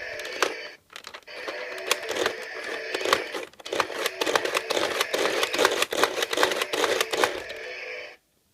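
Electronic sound effect played from a battery-powered Teletubbies toy playset, with steady held tones and a fast run of clicks and clatter, cutting off abruptly near the end.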